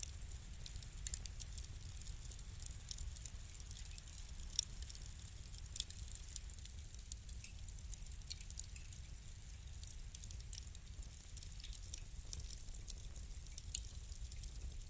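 Wood fire burning in a fireplace: many small, irregular crackles and pops over a low steady rumble, with two sharper pops about four and a half and six seconds in.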